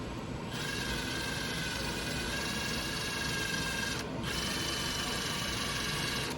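Milwaukee power drill running at steady speed with a high motor whine, drilling a hole in a rubber insert. It runs for about three and a half seconds, stops briefly, then runs again for about two seconds.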